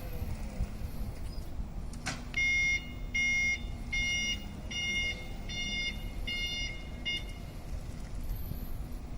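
A 3-ton electric forklift's warning beeper sounding seven evenly spaced beeps, starting just after a sharp click about two seconds in, over the low rumble of the truck moving.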